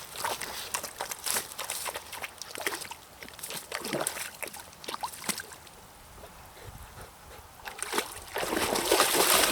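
A dog wading and splashing in the shallow edge of a pond, sloshing the water in short bursts, after a frog. The splashing eases off for a couple of seconds past the middle, then comes back louder near the end.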